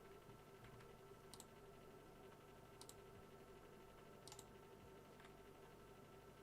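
Faint, sharp clicks about every second and a half: the flasher relay of a bench-powered Opel Vivaro body control module cycling the hazard lights, which stay on when they should be off.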